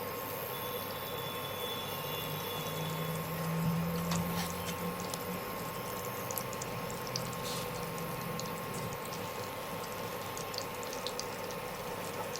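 Butter melting in hot oil in a frying pan, with a faint steady sizzle and scattered small crackles. A steady background hum runs under it.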